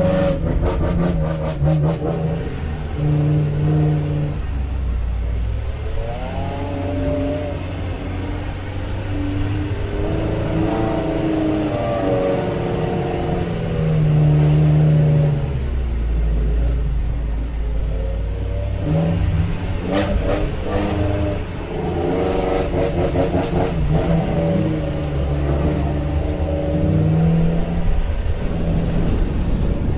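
Off-road 4x4's engine revving up and easing off again and again as it drives over soft dune sand, heard from inside the cabin. Bursts of rattling clatter come near the start and about twenty seconds in.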